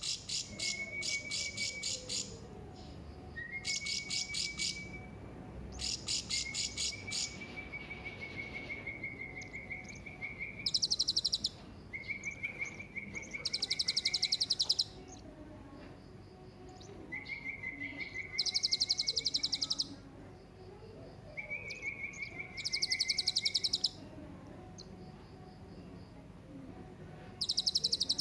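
Hanging parrot (serindit) calling in repeated bouts every few seconds. Each bout is a rapid, high, buzzy chattering trill lasting a second or more, with a thin, high, steady whistle running under it.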